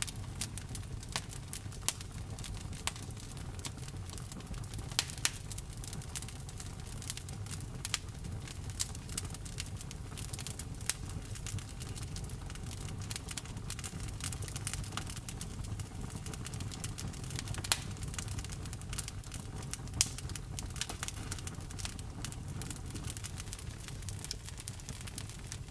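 Wood campfire burning: frequent sharp crackles and pops of the burning wood, a few louder ones scattered through, over a low steady rumble.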